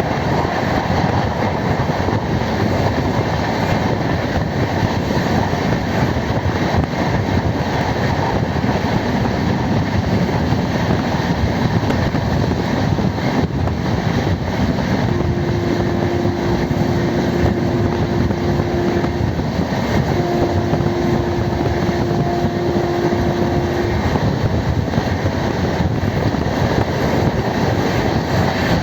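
Passenger train running on the rails, a continuous loud rumble and rattle. A little after the middle, two long steady tones of about four seconds each sound one after the other.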